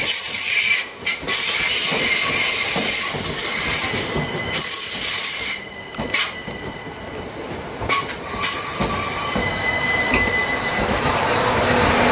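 Southern Class 377 Electrostar electric train moving through a station, its wheels squealing with several high-pitched tones over the rumble of the carriages. The sound drops away briefly about six seconds in, then the squeal and rumble return.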